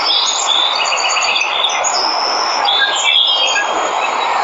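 Waterfall rushing steadily, with several birds chirping, trilling and whistling over the water noise.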